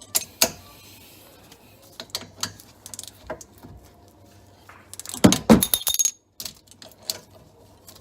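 Scattered metallic clicks and clinks of hand tools working the caliper bolts on a car's rear brake, with a louder cluster of clanks about five seconds in.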